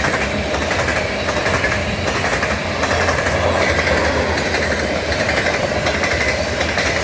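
Freight train of grain hoppers rolling past at speed: a steady, loud rumble and rattle of wheels and cars on the rails.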